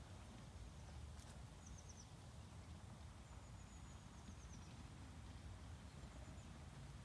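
Quiet outdoor ambience: faint bird chirps, a short run of descending chirps about two seconds in and a rapid high trill near the middle, over a low steady rumble.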